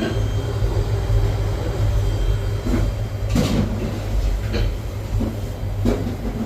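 Steady low hum of a commercial refrigeration unit running, with several short knocks and clatters of handling scattered through it.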